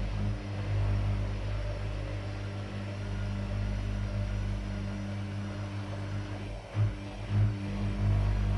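Washing machine running with a steady low motor hum. About seven seconds in the hum dips briefly, then two short, louder surges follow.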